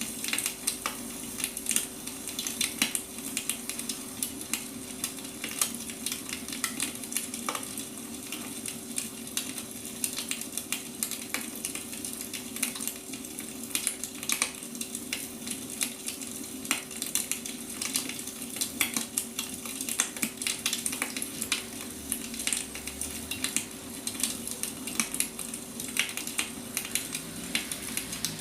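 Firewood burning, crackling steadily with frequent small sharp pops, over a faint steady hum.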